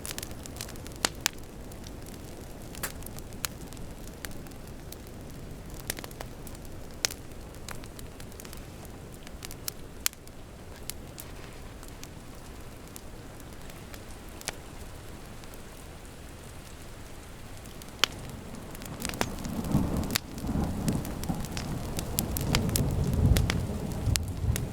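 Wood fire crackling with scattered sharp pops over steady rain. A low rumble of thunder swells in about three quarters of the way through and peaks near the end.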